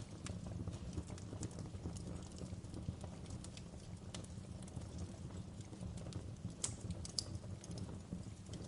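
Wood fire burning with a low steady rumble and scattered sharp crackles and pops from the logs, a few louder pops between about six and a half and seven seconds in.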